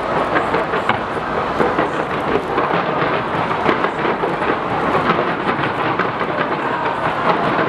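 Dense fireworks barrage: many rapid overlapping bangs and crackles running together into one continuous rumble with no gaps.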